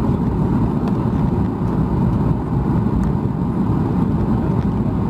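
Steady engine and airflow rumble inside the cabin of a Boeing 737 MAX 8, heard from a window seat by the wing; a constant low drone with no change in pitch or level.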